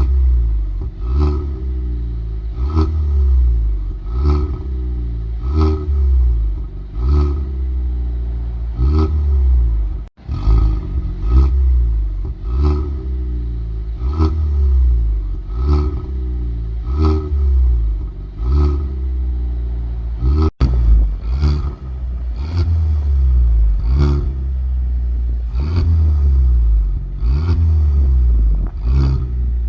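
Kia Stinger's turbocharged four-cylinder engine revving in quick repeated blips through a valve-controlled axle-back exhaust, about one rev every second and a half, with a deep rumble. The sound drops out briefly twice.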